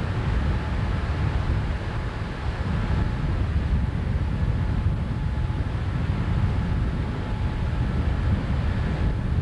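Boat outboard motor running steadily with a faint whine, under heavy wind rumble on the microphone.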